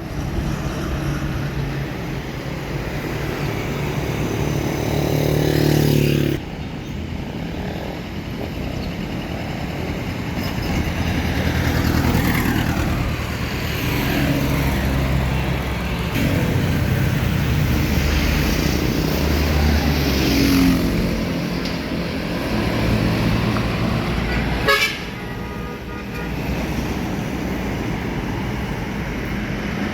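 Busy road traffic passing close by: heavy vehicles such as buses and trucks with their engines running, and a vehicle horn tooting.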